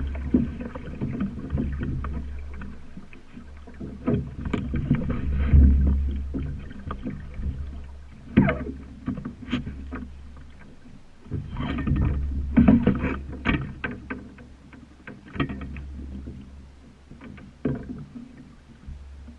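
Water rushing and slapping against a sailing dinghy's hull while it sails, over a steady low rumble, with frequent sharp knocks from the boat and a short falling squeak about eight seconds in.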